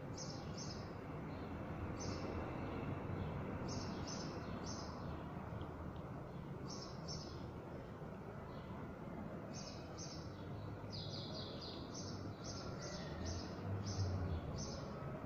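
Small birds chirping in short high notes, often in quick pairs and in a faster run about two-thirds of the way through, over a steady outdoor background hum. A brief low rumble comes near the end.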